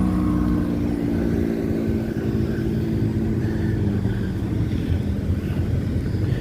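A motor vehicle's engine running as it passes close by, a steady low rumble that fades away over about four seconds.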